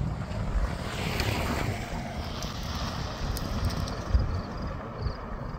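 Wind buffeting the microphone in a low, steady rumble, with a louder rush of wind that swells about a second in and dies away.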